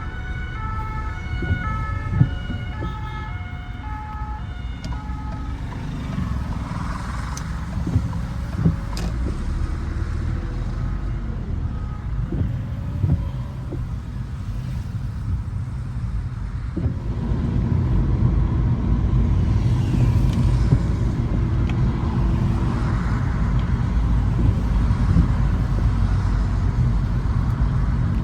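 Car driving on a wet road in the rain, with a steady low rumble that grows louder about two-thirds of the way through. A two-tone emergency siren sounds at the start and fades out within the first five seconds.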